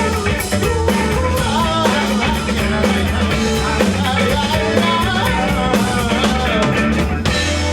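Rock band playing live: drum kit, electric guitar and bass, with a wavering melodic line over them. Near the end the drums stop and a held chord rings on.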